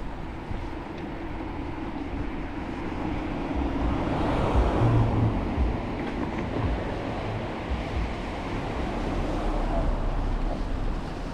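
Outdoor rushing noise with wind buffeting the microphone. It swells to a peak about four to five seconds in, then eases back.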